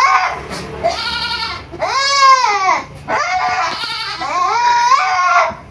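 Goats bleating: several long bleats, each about a second, one after another with short gaps.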